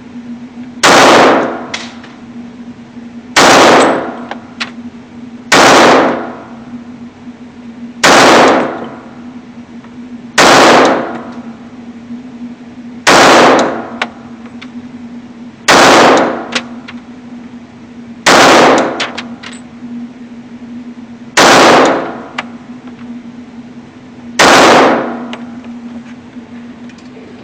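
Glock 21 SF .45 ACP pistol fired ten times in slow, aimed single shots, about two and a half seconds apart, emptying a 10-round magazine. Each shot is a loud sharp report, and a few faint short clicks follow some of them.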